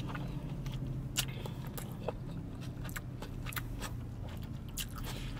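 Close-up chewing of a mouthful of ramen noodles, with small wet mouth clicks scattered throughout, over a low steady hum.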